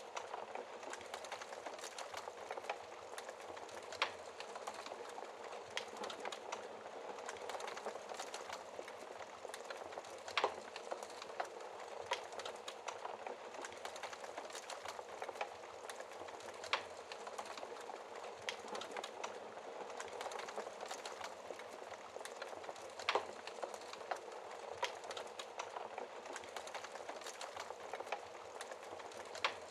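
Wood fire crackling in a fireplace: a steady hiss of burning with frequent small crackles and four louder pops spaced about six seconds apart.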